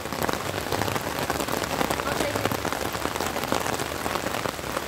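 Steady rain falling, with many quick ticks of drops landing close by.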